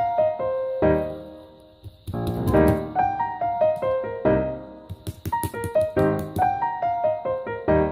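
Solo piano music: a melody over chords, each note struck and left to ring away.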